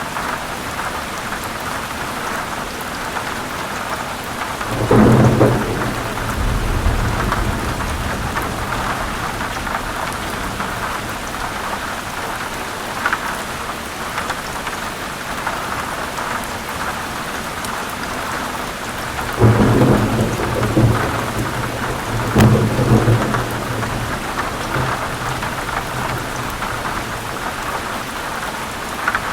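Steady heavy rain with rolls of thunder: a long rumble about five seconds in, and two more about two-thirds of the way through.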